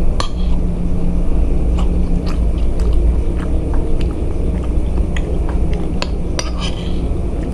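Close-up chewing of a mouthful of rice and dried tempeh, with a few sharp clicks and scrapes of a metal spoon on the plate as the next spoonful is scooped, over a steady low hum.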